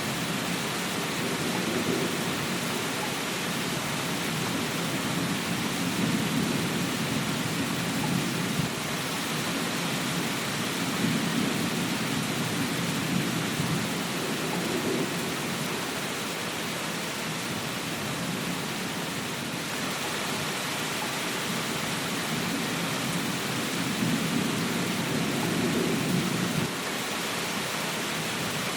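Steady rain hiss, with a low rumble swelling and fading about three times.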